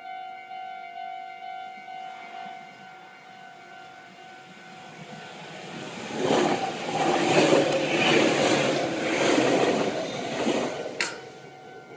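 Train passing close by: a rushing rumble that builds from about two seconds in and is loudest for about five seconds near the end, then cut off abruptly by a single sharp knock.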